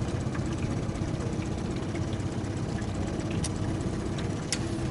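Boat's outboard motor running steadily at trolling speed, with a couple of light clicks near the end.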